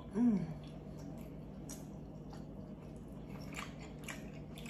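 Close-miked chewing and biting of consommé-dipped birria tacos: soft wet mouth sounds with many faint clicks. A short 'mm' hum falls in pitch just after the start.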